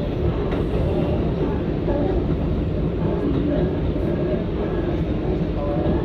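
R188 subway car running along the track, heard from inside the car: a steady rumble of wheels on rail, with short faint whining tones coming and going.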